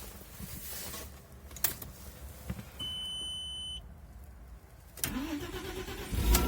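A short electronic chime sounds about three seconds in. At about five seconds the starter cranks, and near the end the 1999 Audi A4's 2.4-litre 30-valve V6 fires loudly and settles into a steady idle through its sports exhaust: a cold start at −7 °C.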